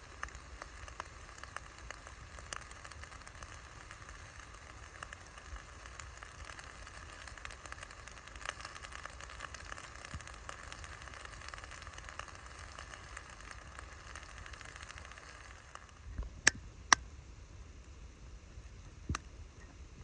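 Wood campfire burning, with a steady hiss and many small crackles. Near the end the hiss thins and a few sharp pops of burning wood stand out.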